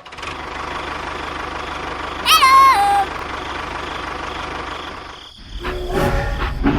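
A small engine running steadily, with a brief high pitched tone stepping down in pitch a couple of seconds in. After a short dip about five seconds in, the engine comes back louder.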